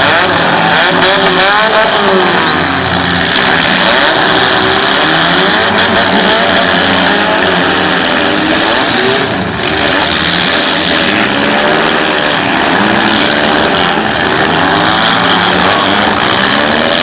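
Several demolition derby cars' engines running and revving together in the arena, their pitches rising and falling constantly and overlapping.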